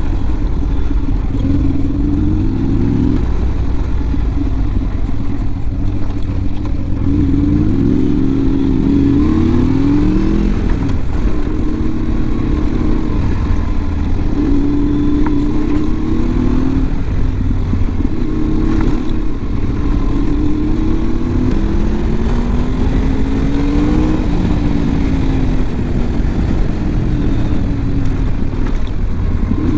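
Honda VFR sport-tourer's V4 engine under way while riding: the engine note climbs repeatedly and drops back, as in accelerating and shifting through the gears, over a steady low rush of wind and road noise.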